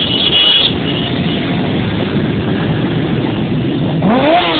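Many motorcycle engines running together in a mass of bikes. About four seconds in, one engine revs up sharply and falls back. A high steady tone sounds briefly at the start.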